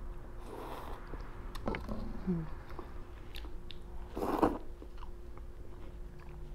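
A person chewing a mouthful of ramen noodles close to the microphone, with wet mouth clicks and soft smacking. There is one louder noisy burst about four seconds in.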